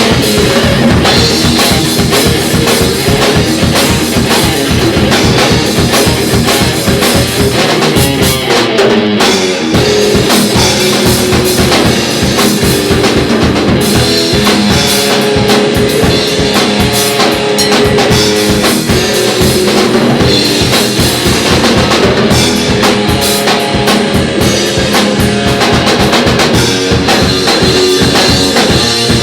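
Instrumental rock band playing, with a drum kit keeping a steady driving beat of bass drum and snare under sustained pitched instruments.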